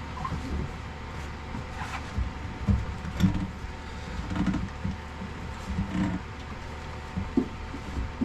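Irregular knocks and clunks from hose fitting and handling of hard parts in a cramped engine room, over a steady low hum.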